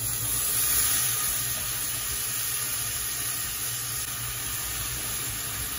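Chopped onions and raw fish pieces sizzling in hot vegetable oil in a pot, a steady frying hiss.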